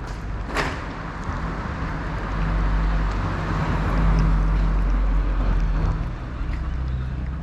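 A motor vehicle's engine rumble with a hiss, swelling in the middle and easing off near the end, like a vehicle passing close by. A sharp click sounds about half a second in.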